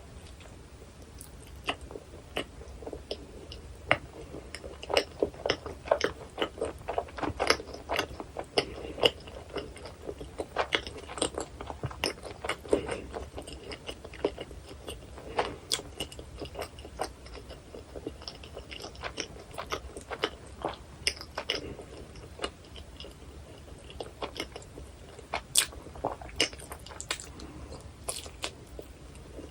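Close-miked eating of a hot dog in a bun topped with onion, chili and cheese sauce: steady chewing with many short, sharp mouth clicks and bites, busiest in the first half.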